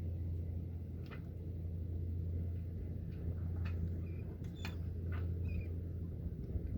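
A boat's engine running steadily under way, a low even drone, with scattered short clicks and brief high chirps over it.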